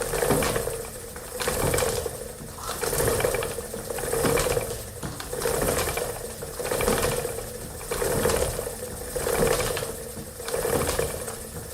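Old wooden spinning wheel turning at a steady pace, its clicking and rattling swelling and fading in a regular cycle about every second and a quarter, once per turn.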